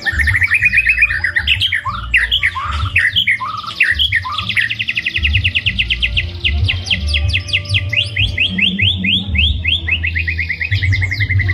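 A white-rumped shama (murai batu) singing: a varied burst of quick chirps and whistles, then, from about four seconds in, long trills of fast repeated notes. The song is full of the mixed, mimicked phrases that mark a 'full isian' shama in full song.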